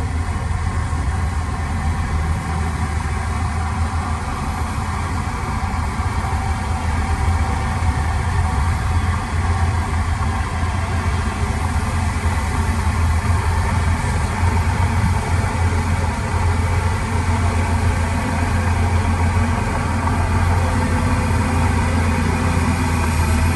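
Heavy diesel engine of earthmoving machinery running steadily with a deep, constant rumble.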